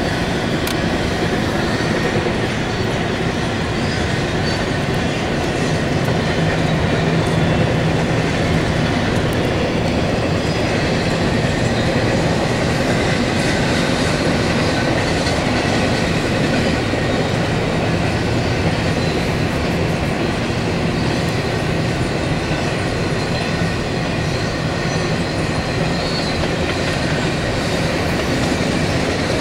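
Intermodal freight cars of a CSX stack train rolling past at steady speed: a continuous rumble and rattle of steel wheels on rail, with no letup.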